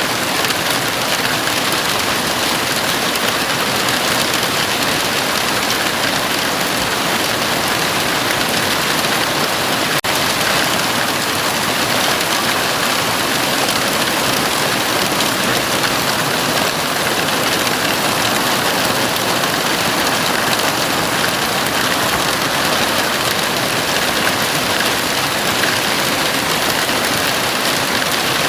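Heavy rain falling steadily on a house roof: a dense, even hiss with no thunder.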